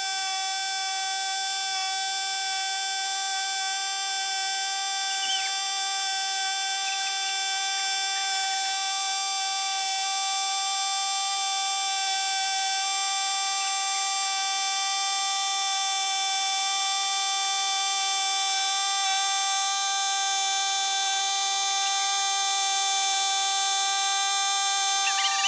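Small Chinese dirt bike engine held wide open at high revs, a steady high-pitched drone that slowly grows a little louder.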